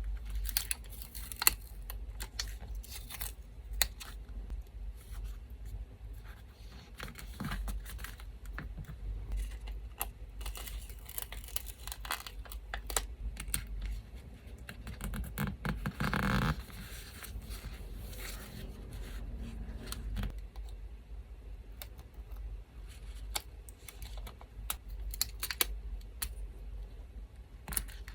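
Small pieces of paper being torn, rustled and handled, with scattered crackles and light clicks and a longer, louder tear about halfway through. A low, steady electric-fan hum runs underneath.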